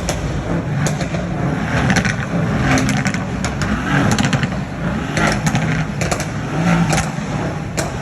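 Performance car engines running and revving, with sharp irregular crackles and pops from the exhausts.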